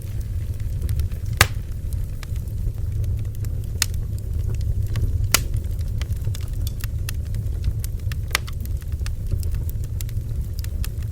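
Bonfire crackling: many small crackles and three sharp pops of burning wood, over a steady low rumble.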